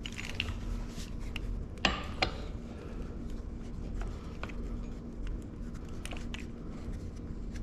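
A few light metallic clicks of an Allen wrench working the crank bolts of a bicycle, the clearest two about two seconds in, over a steady faint hum.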